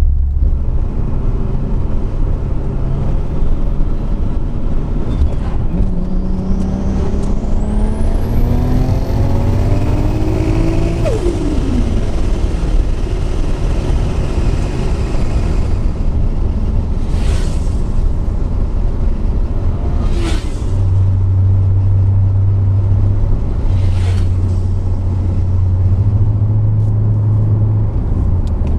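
Single-turbo 2JZ Toyota Supra engine accelerating hard, its note and a high whistle rising together for about five seconds before the pitch drops suddenly as the throttle is lifted. It then runs on at a steady lower note, with three short hisses along the way.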